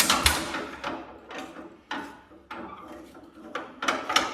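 Hercules IXA four-cylinder engine firing unevenly while trying to start: a ragged string of sharp bangs at irregular intervals, not yet running steadily. Cold first start that wants more choke.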